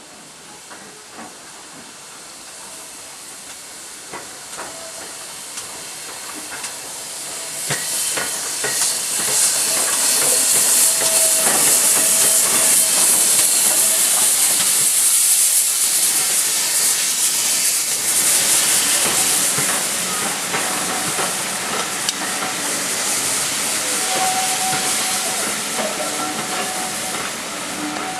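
Steam locomotive letting off a loud hiss of steam. The hiss builds over the first several seconds, stays strongest for about ten seconds, then eases off.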